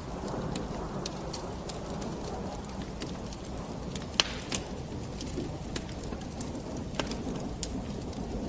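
Wood fire burning in a fireplace: a steady low rush of flames with scattered sharp crackles and pops, the loudest pop about four seconds in.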